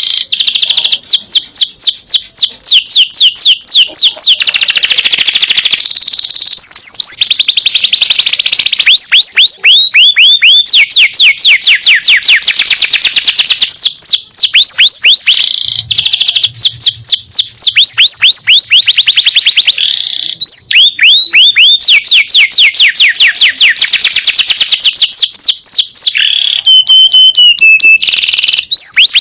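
Domestic canary singing loudly: long rolling trills of rapid downward-sweeping notes, many per second, in phrases with short breaks, and a couple of held whistled notes near the end.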